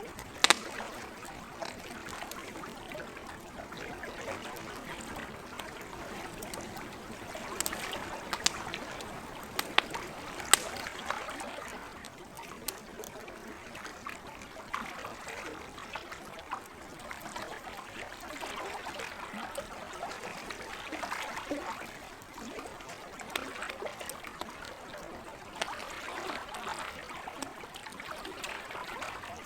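Campfire crackling with sharp pops, the loudest about half a second in and a cluster between about eight and eleven seconds in, over lake water lapping and trickling.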